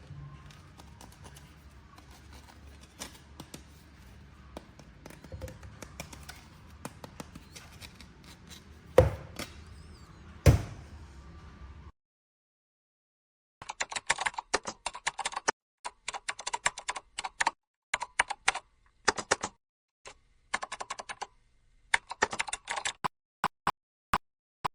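Faint handling noise with two sharp clicks about nine and ten and a half seconds in, then, after a moment of dead silence, bursts of rapid clicking like keyboard typing.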